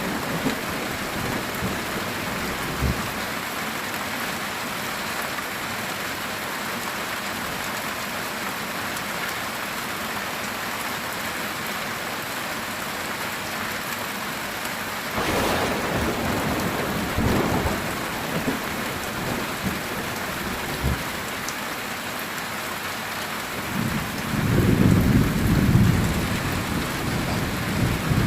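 Steady heavy rain on a metal roof. About halfway through a sharp thunderclap cracks and is followed by rumbling, and near the end a louder, low roll of thunder comes in.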